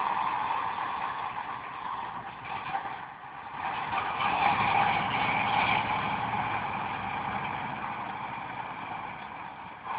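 Motor vehicle noise: a steady rush of engine and road sound that dips about three seconds in and swells again about a second later.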